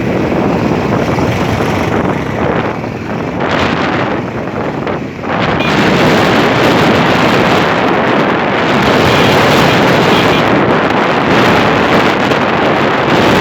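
Loud wind buffeting the microphone of a moving bike, with traffic and road noise underneath; it gets louder and steadier about five seconds in, as if speed picks up.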